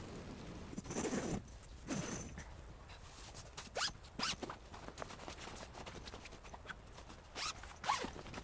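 A zipper pulled open in two quick rasping strokes, followed by rustling and small clicks of handling.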